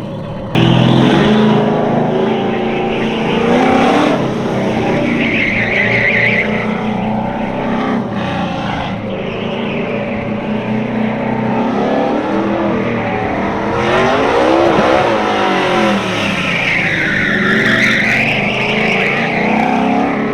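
Cammed LS3 V8 of a squarebody Chevrolet C10 autocross truck at full effort on the course, revving up and down through the turns. The tires squeal twice, about five seconds in and again near the end.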